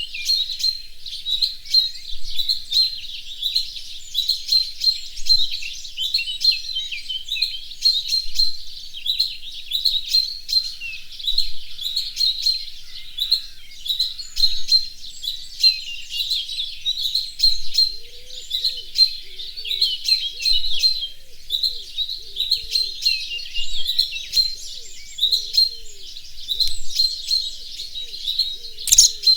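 A chorus of small birds chirping and twittering without a break, many short high calls overlapping. From about two-thirds of the way in, a fainter low-pitched call repeats beneath them, and a single sharp click sounds near the end.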